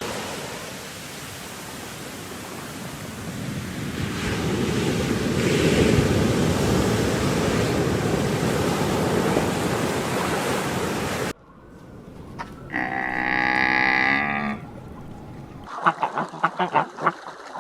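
A loud, steady rushing noise for about eleven seconds that cuts off suddenly, followed by a single drawn-out animal call and then a rapid run of duck quacks near the end.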